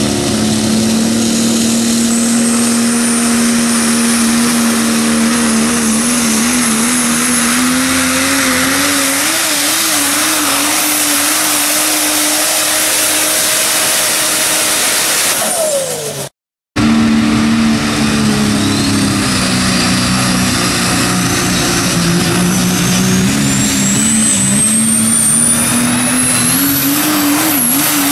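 Super stock diesel pickup trucks pulling a sled, their engines running hard under heavy load with a high turbocharger whistle climbing in pitch. About halfway through the first engine's note drops off. After a short break a second run starts, its turbo whine rising steadily to the end.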